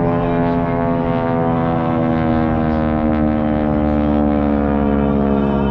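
Aircraft flying past: a steady engine drone made of many tones together, its pitch slowly falling throughout.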